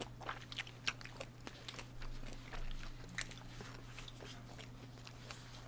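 Faint close-miked chewing of kielbasa sausage: scattered wet mouth clicks and smacks, with a steady low hum underneath.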